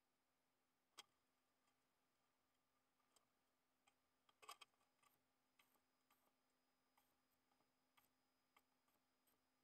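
Near silence: a low steady hum with faint, irregular light clicks and taps.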